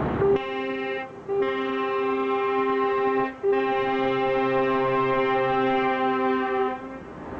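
Truck air horn sounding a steady two-note chord in long blasts, broken twice by short gaps: about a second in and midway.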